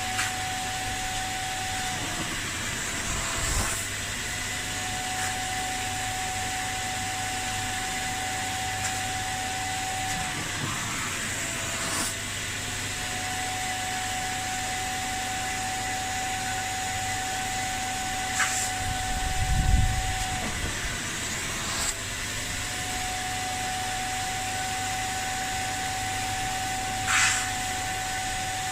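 Kärcher Puzzi 10/1 spray-extraction machine running steadily, a whine over a rushing hiss of suction. The whine sags briefly in pitch about every eight to ten seconds, with a few sharp clicks scattered through and a low thud about two-thirds of the way in.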